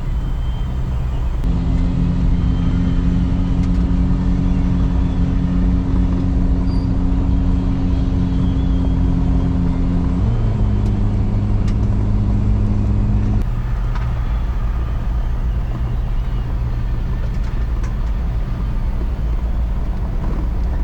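A four-wheel-drive's engine running with steady road rumble while driving. The engine note rises about a second and a half in, changes pitch around ten seconds in, and settles back to its earlier note near thirteen seconds.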